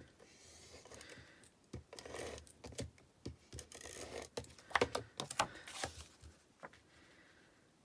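Paper and cardstock being handled: a string of light taps, clicks and rustles as card layers are moved and pressed together, thinning out near the end.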